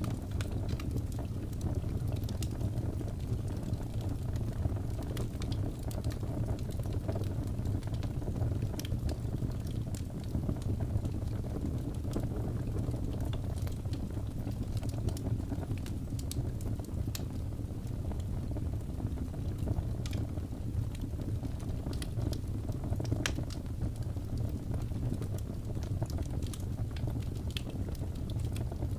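Wood fire burning: a steady low rumble of flames with scattered small crackles and pops from the burning logs.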